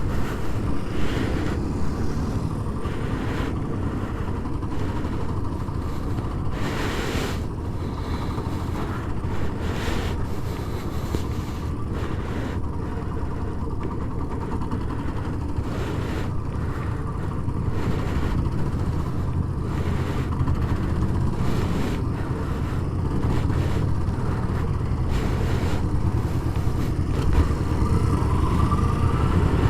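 Kawasaki Ninja 125's single-cylinder four-stroke engine running steadily at low speed under way, gradually getting louder toward the end, with a few brief noises over it.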